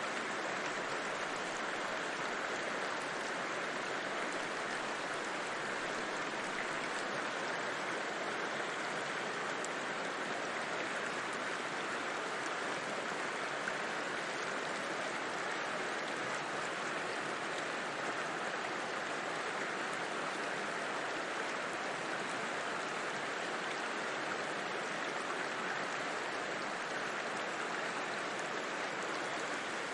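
A river flowing over rocks, a steady, even water noise that does not change.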